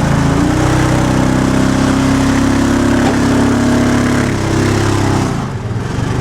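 Arctic Cat 4x4 UTV engine running under load on a rocky trail. It revs up a moment in, holds steady, and eases off shortly before the end.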